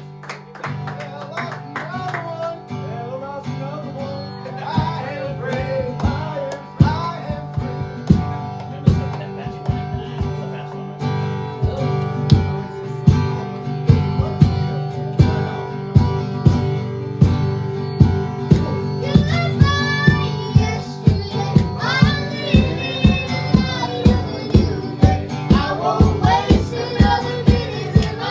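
Worship band playing a song: guitar over held chords, with a steady beat that grows stronger about halfway through, and singing coming in near the end.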